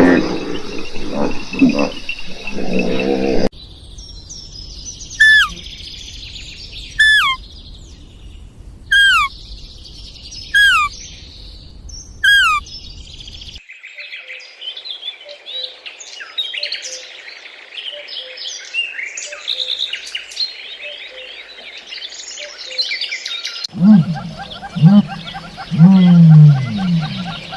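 A series of cut-together animal calls: a loud animal call, then a bird's short call falling sharply in pitch, repeated five times at even spacing, then a dense chorus of many birds chirping, and near the end lower, pitched calls from a larger animal.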